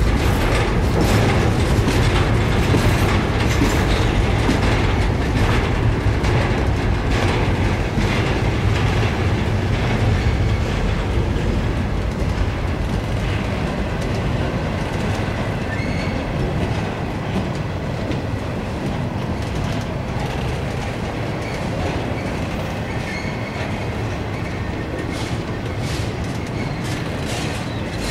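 Empty intermodal well cars of a freight train rolling past: a steady rumble of steel wheels on rail with a running patter of clicks, easing off slightly in the second half.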